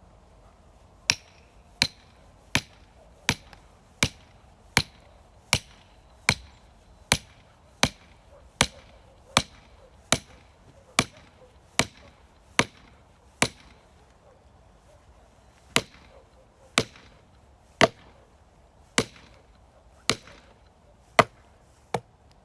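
Firewood being chopped by hand: sharp, evenly spaced strikes, about one every three-quarters of a second, then a short pause and seven more, a little slower.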